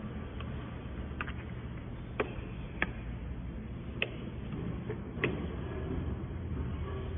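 Rear wheel disc brake rubbing: a sharp tick roughly once a second as the disc catches the brake pad while the wheel turns, over a steady low hum. The noise is a sign that the disc-to-pad clearance is too tight.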